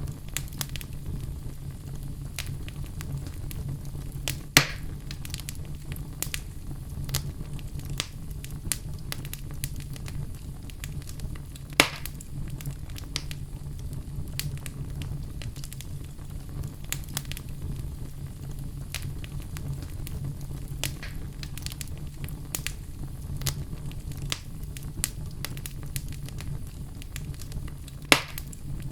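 Wood fire burning with a steady low rumble and continuous small crackles, and three loud pops spread through the stretch as the logs snap.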